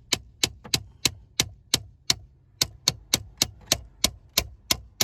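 Steady hammer strikes driving a bolt out through a Jeep Cherokee XJ's tilt steering column mechanism, sharp taps about three a second with a short pause a little after two seconds.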